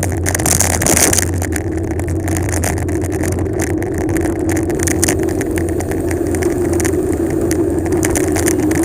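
Wind rushing over the microphone with a steady rumble and hum from the bicycle rolling fast downhill. The hiss is brightest for about the first second, then settles into an even rush.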